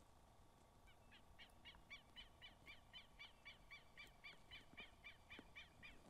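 A bird calling faintly: a fast, even series of short repeated notes, about four a second, starting about a second in.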